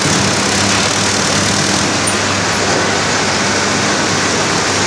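Tractor engine running steadily with an even low hum, under a loud constant noise of machinery.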